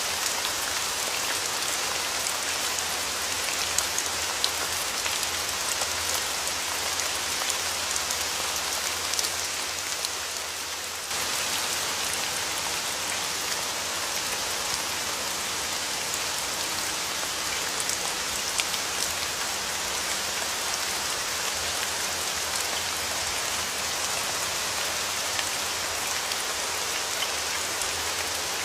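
Steady rain falling: an even hiss with many small drops ticking on a surface. The rain eases slightly just before eleven seconds in, then comes back at full strength at once.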